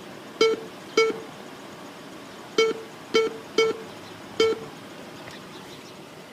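Car wash pay station keypad beeping six times as the code from the receipt is punched in, one short beep per key press at an uneven pace.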